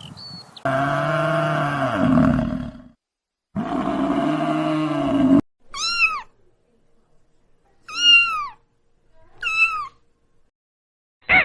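Two long, low animal calls of about two seconds each, then three short cat meows, each rising and falling in pitch, spaced about two seconds apart.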